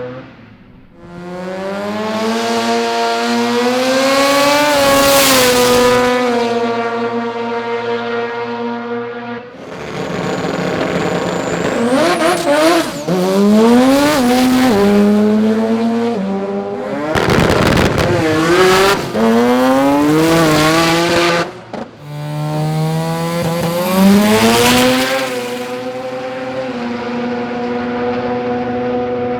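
Turbocharged Mazda rotary engines on drag cars revving and accelerating hard, the pitch climbing and dropping back at each gear change, with steady high-revving holds in between. Several runs follow one another with sudden changes between them.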